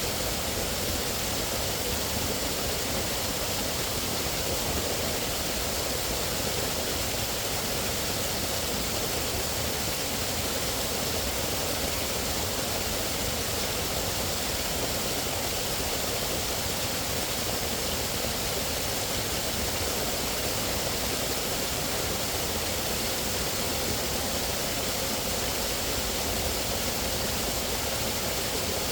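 Steady, unbroken rush of flowing water, even and without distinct splashes or other events.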